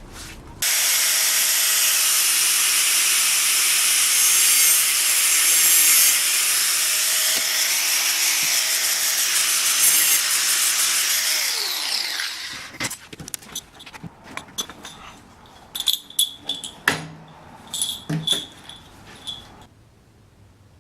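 A power tool starts abruptly and runs steadily for about ten seconds, then spins down with falling pitch. Irregular light taps and a few ringing clinks follow as work pieces are handled.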